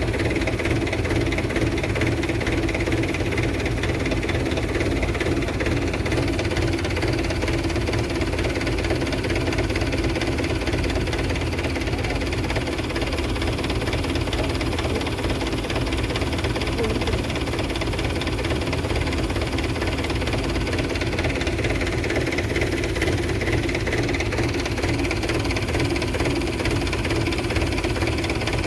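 Tractor engine running steadily at an even speed, driving a tractor-mounted HTP sprayer pump.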